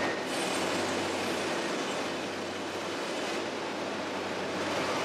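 Heavy machinery running: a steady engine drone under a broad, even noise.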